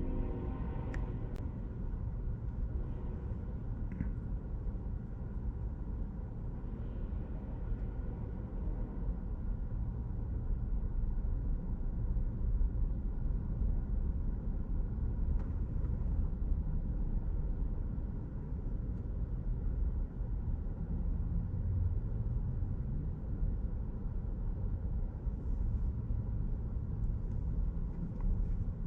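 BNSF freight train passing, a steady low rumble of wheels on the rails.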